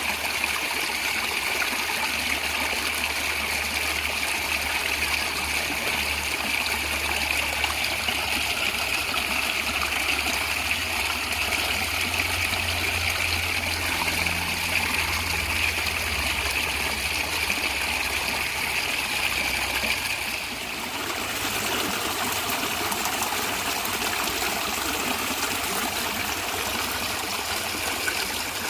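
Natural stream water running and gurgling steadily. About twenty seconds in the sound dips briefly and then goes on with a slightly different, less bright character.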